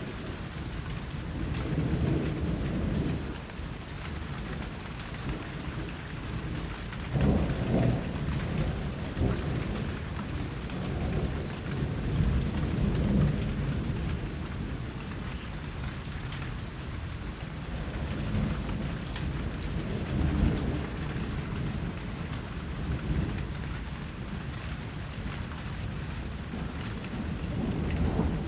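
Steady rain falling, with deep low rumbles that swell up and fade away several times.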